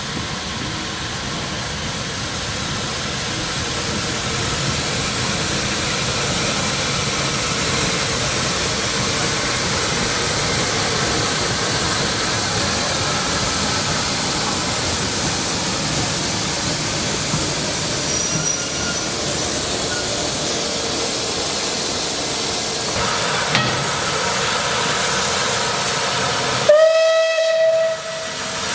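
Heritage railway train running, with a steady rushing hiss that swells over the first few seconds. Near the end comes one short whistle blast on a single note, rising into pitch as it opens.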